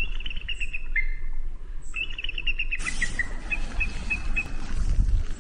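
A bird calling in quick series of high, chattering chirps, several bursts in a row. About three seconds in, a steady hiss of outdoor noise joins it.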